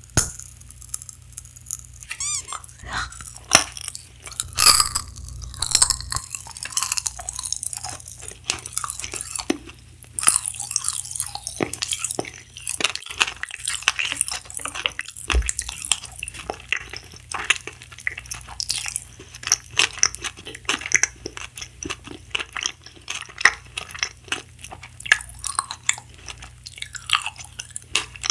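Close-miked crunching and chewing of a pink sweet in the mouth, a dense run of small crisp crackles and clicks.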